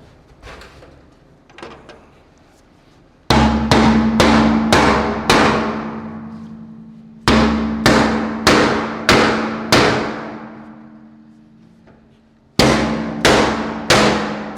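Repeated hard blows on the hollow aluminum fuel tank, each leaving a steady metallic ring that fades slowly. They come in three quick runs of four or five strikes, after a few faint taps.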